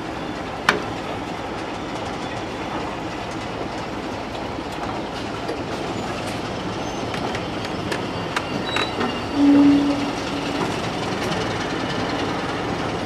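Passenger coaches rolling slowly past, with a steady rumble and the wheels clicking over the rail joints, including one sharp click about a second in. About nine and a half seconds in there is a brief low horn note, the loudest sound.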